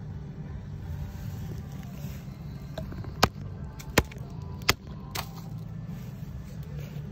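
Low steady rumble of a vehicle engine idling, with four sharp clicks about half a second apart a little past the middle.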